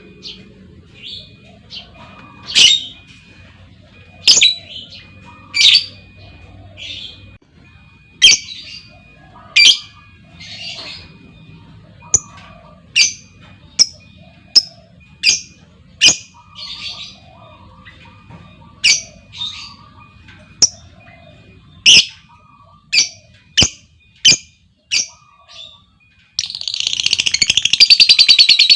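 Lovebirds giving sharp, high single chirps every second or so, then near the end breaking into a fast, unbroken rattling trill, the long 'ngekek' chatter.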